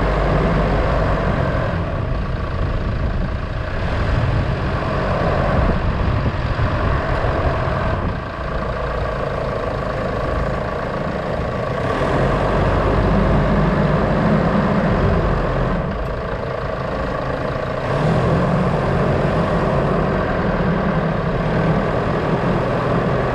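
A motor vehicle's engine running while driving, with road noise; its note and load change every few seconds.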